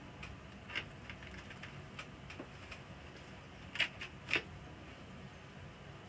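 Scattered light clicks and taps, with two sharper clicks about half a second apart near four seconds in.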